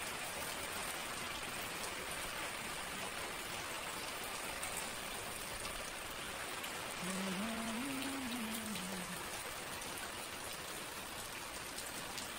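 Heavy rain falling steadily onto a rooftop terrace's floor and its potted plants: a dense, even hiss of drops. A short low hum rises and falls about seven seconds in.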